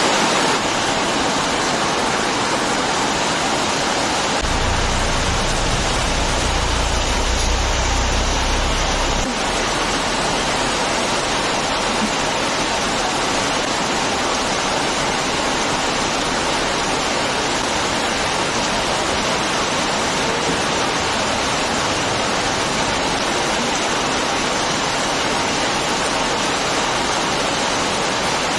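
Heavy rain falling with a steady, even hiss. A low rumble runs underneath for a few seconds near the start.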